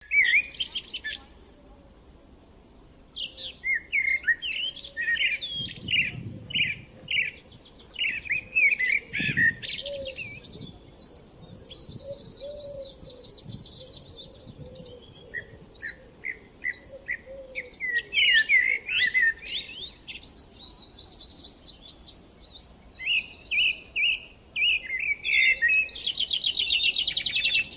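Songbirds singing, several at once: quick overlapping chirps and whistled phrases, with fast high trills coming in around the middle and again near the end.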